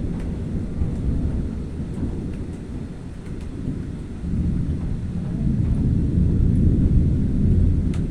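Thunder rolling in a long low rumble that swells about halfway through and is loudest near the end.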